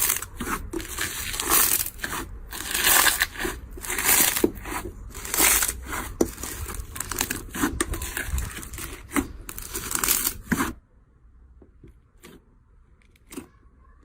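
Something crunchy being crushed and torn: a dense, crackling run of snaps and crunches that cuts off suddenly about eleven seconds in, followed by a few faint clicks.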